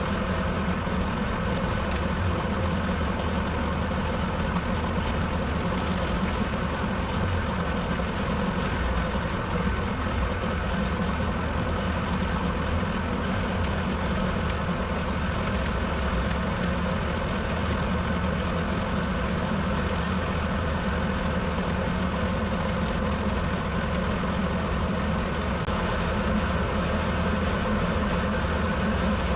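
Tractor engine running at a steady speed while it drives a bush hog rotary cutter, an even, unchanging drone.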